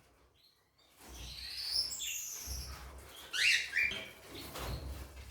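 Pet birds chirping. High, falling chirps begin about a second in, and a louder cluster of chirps comes just past the middle.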